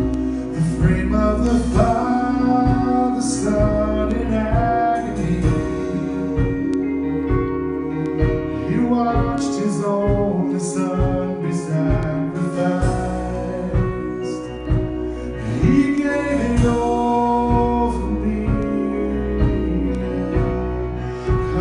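Worship song playing, with singing voices over instruments and a steady drum beat.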